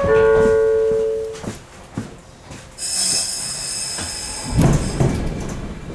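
Two-note door-closing chime on a 115-series train, ending about a second and a half in. A few seconds later comes a high hiss of air, then heavy thuds as the sliding passenger doors shut near the end.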